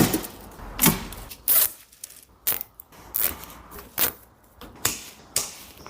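Nylon cable ties being pulled tight around hydraulic hoses: a string of short zips and clicks, irregularly spaced.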